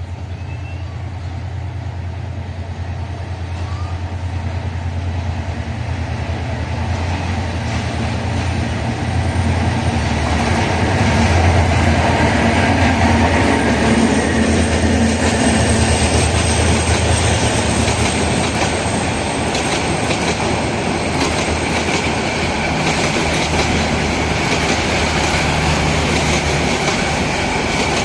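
A diesel-hauled train passing close by. The locomotive's engine drone grows louder over the first ten seconds or so. The coaches then roll past, with steady clicking of wheels over rail joints and a thin, high wheel squeal.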